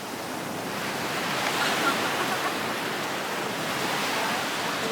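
Ocean surf washing ashore in a steady rush, swelling over the first couple of seconds.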